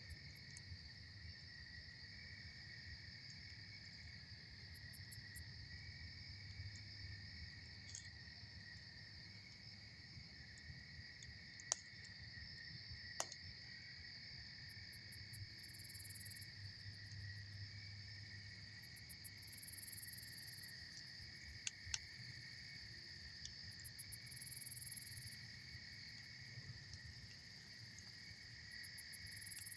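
Campfire burning with a few sharp pops, the loudest about midway and a pair a little later, over a steady high chirring insect chorus and a low, even rush.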